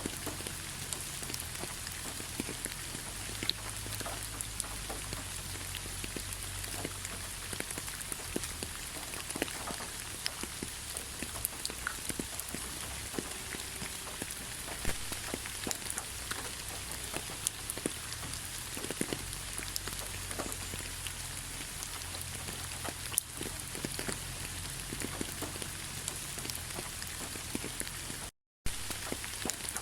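Steady rain falling on a surface: an even hiss with many separate drops ticking through it. The sound cuts out completely for a fraction of a second near the end, then resumes.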